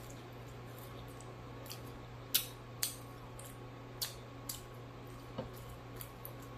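Mouth smacking and wet clicks while chewing fried fish, about five or six short, sharp, irregularly spaced clicks over a steady low hum.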